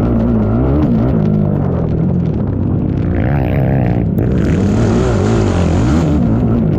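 ATV engine running hard, its pitch rising and falling again and again as the throttle is opened and backed off.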